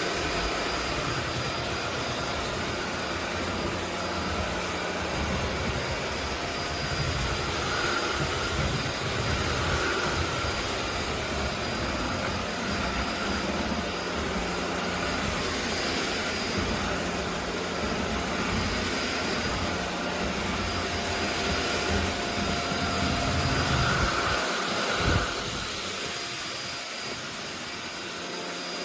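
SunSare X11 cordless stick vacuum running steadily: a rush of air with a steady motor whine. A little before the end there is a single knock, and the low rumble drops away.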